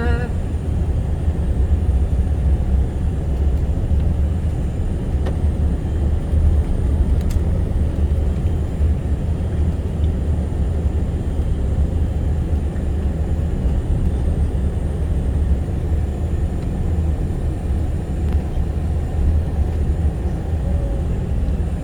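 Steady rumble of a moving vehicle heard from inside the cabin: engine and road noise, even and unbroken.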